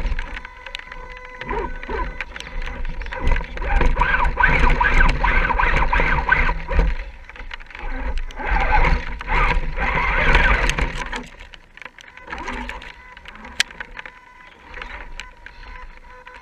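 Radio-controlled scale crawler's electric motor and gear drivetrain whining while driving. It grows louder and rougher in two stretches, from about four to seven seconds in and again from about nine to eleven seconds, then drops back to a fainter whine.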